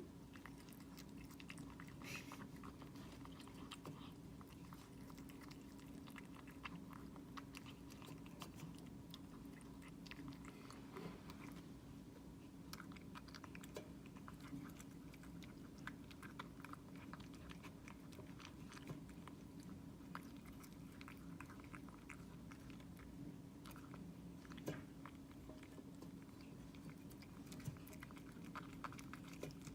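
A cat chewing and crunching a mackerel fish treat: a continuous run of faint small clicks and crunches.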